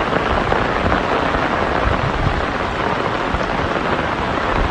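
Heavy downpour falling onto floodwater, a steady dense hiss with irregular low rumbles underneath.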